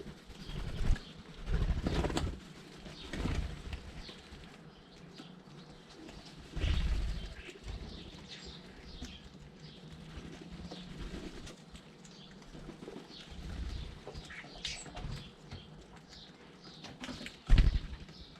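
Garden birds feeding close to the microphone: several loud, brief flurries of flapping wings, about two seconds in, about seven seconds in and near the end, over faint chirping.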